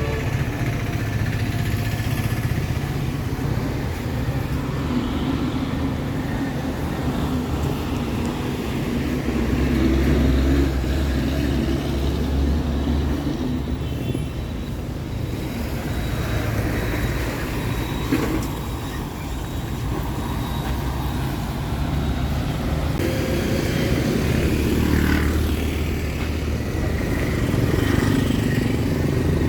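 Town street traffic: motor vehicles passing close by with a continuous low engine sound, loudest about ten seconds in and again around twenty-five seconds in.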